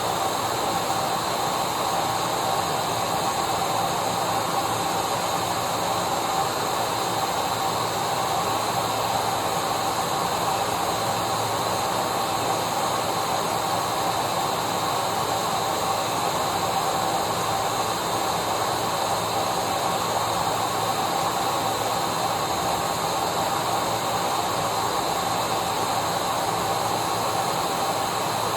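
Vacuum cleaner running steadily: a constant motor whine over a hiss of rushing air, with no change in pitch or level.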